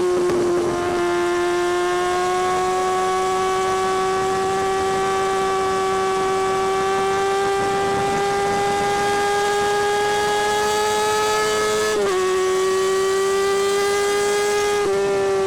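2017 Kawasaki Ninja ZX-6R's 636 cc inline-four exhaust under steady throttle, the engine note climbing slowly as the bike gathers speed. It drops sharply at an upshift about twelve seconds in, then climbs again until another shift near the end.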